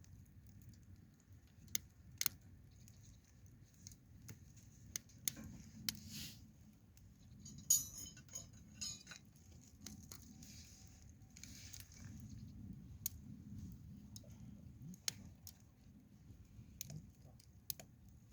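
Faint wood campfire crackling, with scattered sharp pops and clicks at irregular intervals over a low, steady rumble.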